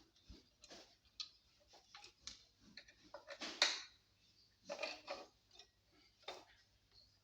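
Irregular small clicks, taps and short scrapes of hands handling a subwoofer and its wooden box during test-fitting, the loudest about halfway through.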